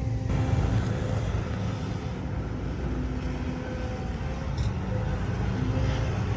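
Heavy diesel earthmoving machinery running steadily with a deep, constant engine rumble.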